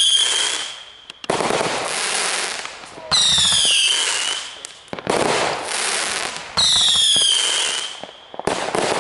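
Consumer fireworks going off in quick succession: shrill whistles that slide down in pitch alternate with sudden loud bursts of noise that die away over about a second, three or four of each.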